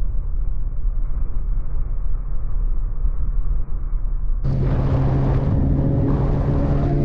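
Motorcycle riding noise: a muffled, steady low rumble of engine and wind. About four and a half seconds in it cuts abruptly to a brighter, louder engine running at a steady pitch.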